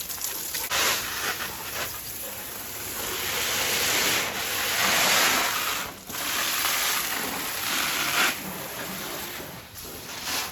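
Garden hose spraying water onto a car's engine bay, a steady hiss of spray that dips briefly about six seconds in and again near the end.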